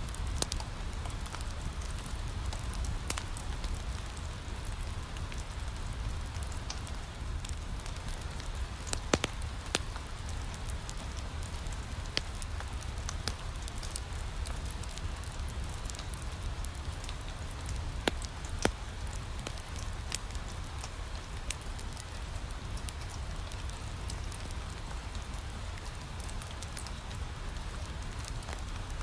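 Steady rain pattering on a window over a low rumble, mixed with a wood fire crackling in a fireplace. Scattered sharp pops, the loudest one about nine seconds in and a pair about eighteen seconds in.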